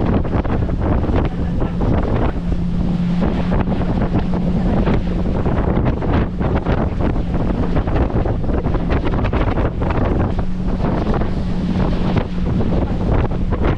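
Wind buffeting the microphone on a banana boat ride over the water, with the steady drone of the towing motorboat's engine and water rushing beneath.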